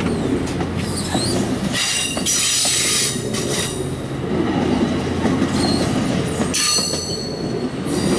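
MARC commuter train rolling along with a steady low rumble, its wheels squealing high on the rails in two long stretches, about two seconds in and again near seven seconds.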